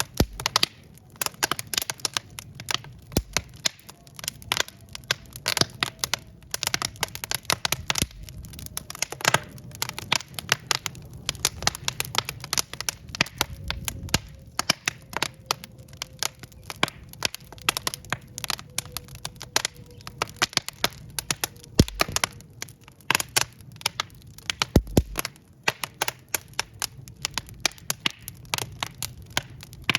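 Wood fire burning in a fireplace: dense, irregular crackling and popping of burning logs over a low rumble of the flames. A faint thin whistle slowly drops in pitch through most of it, and two heavier pops with a low thud come late on.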